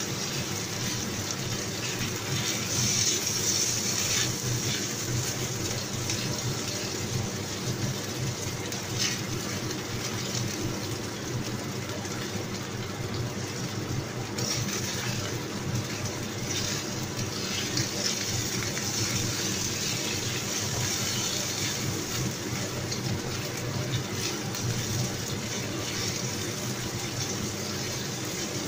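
Chicken pieces sizzling in hot oil in a non-stick wok, stirred with a wooden spatula that now and then scrapes or knocks against the pan. A steady low hum runs underneath.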